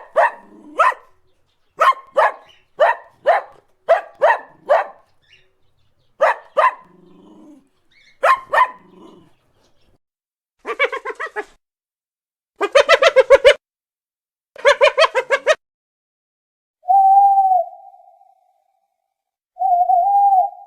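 A series of animal calls: about a dozen short, sharp calls in the first nine seconds, then three rapid stuttering call trains, then two steady held hoot-like tones near the end.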